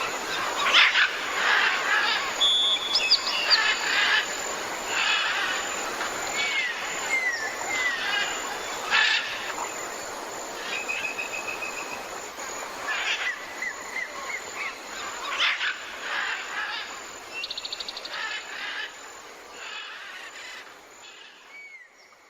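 Several birds singing and calling together: short downward-sliding whistles, rapid trills and chirps overlapping over a steady outdoor hiss, fading out near the end.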